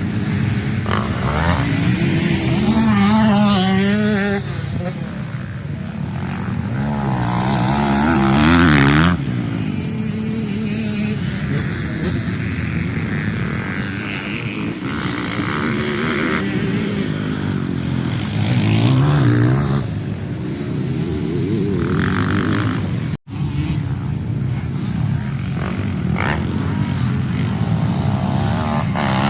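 Single-cylinder 450 four-stroke motocross bike engine revving up and down through the gears while ridden hard, with a brief cut-out near the end.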